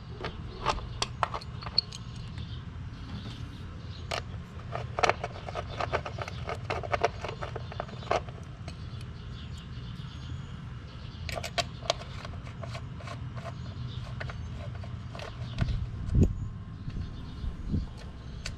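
Scattered clicks, taps and scrapes of hand cleaning in a car's engine bay, tools and brushes knocking on plastic and metal, over a steady low hum. A deeper thump comes about 16 seconds in.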